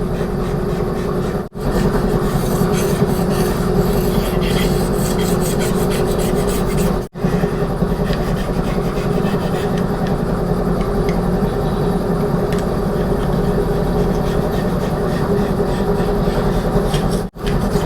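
Razor scraper rasping leftover gasket material and sealant off the gasket surface of a Ford 260 V8's cast-iron block, in a steady run of quick scraping strokes. An air compressor hums underneath. The sound breaks off sharply three times.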